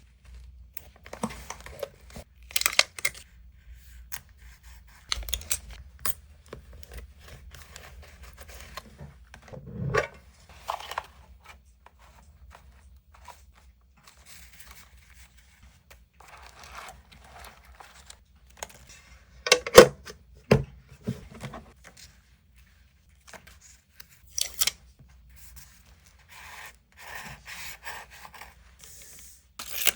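Paper being handled for vintage scrapbooking: irregular rustling and tearing, with scattered sharp taps and clicks, the loudest cluster about twenty seconds in.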